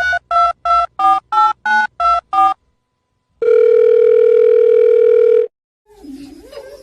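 Telephone keypad tones as a number is dialled: eight short two-note beeps at about three a second. After a brief pause comes one steady phone line tone lasting about two seconds.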